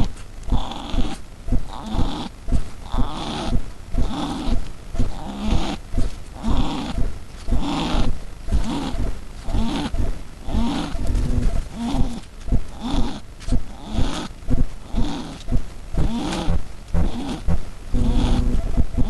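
Northern brown kiwi grunting and wheezing in a steady run of short rough calls, a little faster than one a second: the grunts and wheezes a kiwi pair use to affirm their bond.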